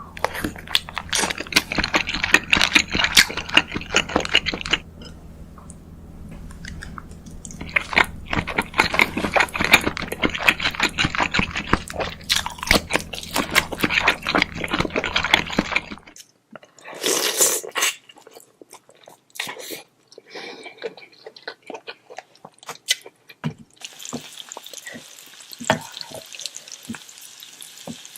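Close-up eating sounds of king crab: shells cracking and crunching, with wet chewing and sucking, in dense runs of sharp clicks. About halfway through, the low background hum drops out and the clicks become sparser, with a steady hiss joining near the end.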